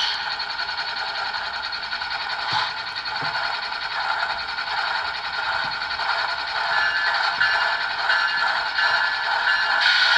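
ESU LokSound sound decoder in a model GE ES44AC diesel locomotive playing its diesel engine running sound through the model's small speaker, steady and thin, lacking deep bass.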